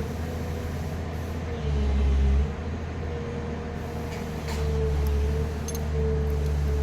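An engine running steadily with a low hum and a higher wavering whine. It swells louder for about a second a couple of times, as if briefly revved or loaded.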